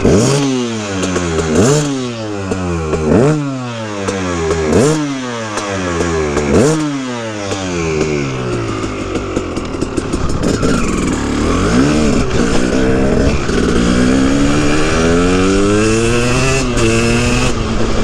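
KTM 300 EXC single-cylinder two-stroke dirt bike engine, blipped sharply five times about every second and a half, the revs falling away after each. For the rest it runs steadier under way, with smaller rises and falls in revs.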